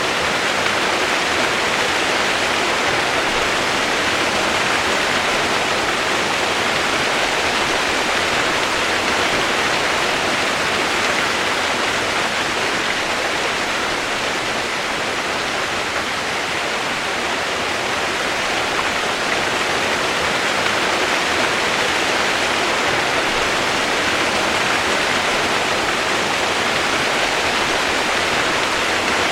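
Steady rain white noise: an even, unbroken hiss with no separate drops, thunder or other events.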